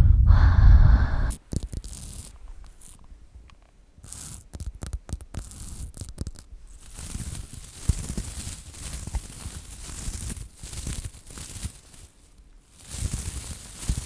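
Close scratching and rustling right at the microphone in uneven bursts with sharp crackles and short pauses, after a loud muffled bump of handling in the first second.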